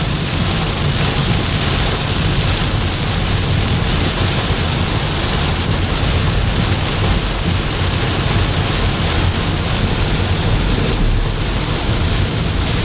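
Steady rain and low rumbling road noise heard inside a moving car driving through a storm.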